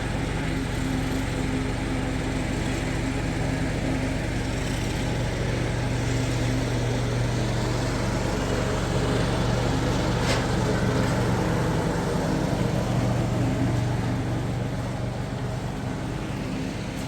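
An engine running steadily at an even speed, a low hum that swells slightly midway, with one faint click about ten seconds in.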